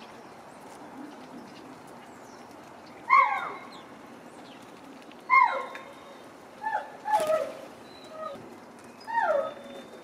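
A bird calling close by: five loud, short calls, each sliding down in pitch.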